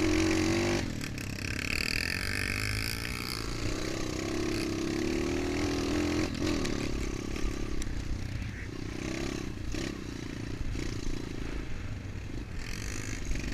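MXF 125 dirt bike engine running, its revs rising and falling repeatedly as the bike is ridden.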